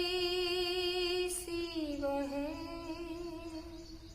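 A woman's singing voice holds one long note with a slight vibrato. About two seconds in it dips and comes back up, then fades away near the end.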